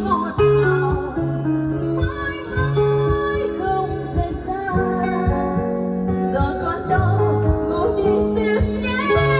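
Instrumental music from an electronic keyboard arrangement: sustained bass notes and chords under a melody line.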